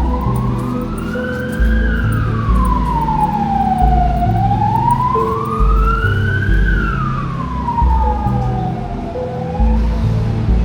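An emergency vehicle siren wailing, rising and falling slowly about twice, over background music with deep bass notes.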